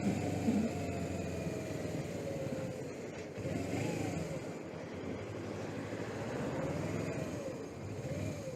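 Suzuki GS500E air-cooled parallel-twin motorcycle engine running under way, its pitch rising and falling several times as the revs change, over a steady rush of wind noise.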